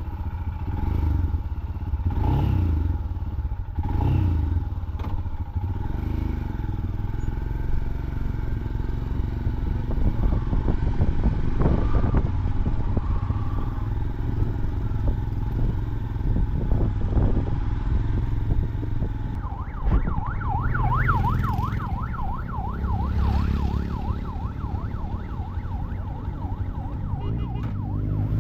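Motorcycle riding along, its engine running with a steady low rumble and some clatter. About two-thirds of the way in, a siren starts warbling rapidly up and down over the engine noise.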